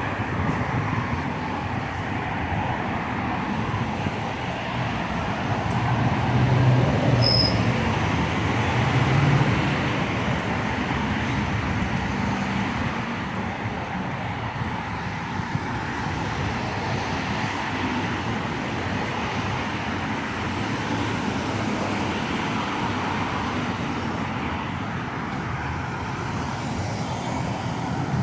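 Rush-hour street traffic: a steady wash of passing cars and engines, growing louder with a low engine drone about six to ten seconds in. A short high tone sounds once about seven seconds in.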